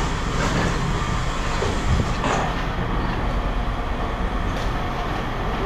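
A steady mechanical rumble, with a couple of light knocks.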